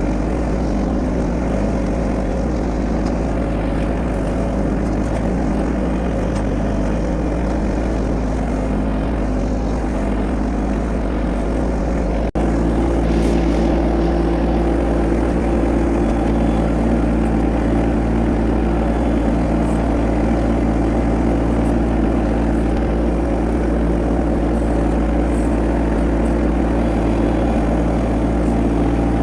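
An engine running steadily at a constant speed. About twelve seconds in it cuts abruptly to a slightly louder, steady run.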